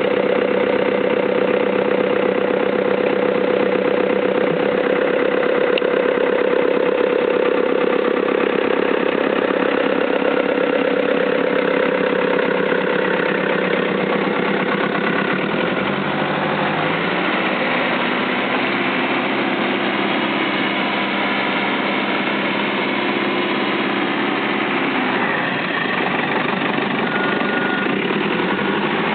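Caterpillar 432D backhoe loader's diesel engine running steadily; about halfway through its note shifts and wavers slowly up and down as the engine speed changes.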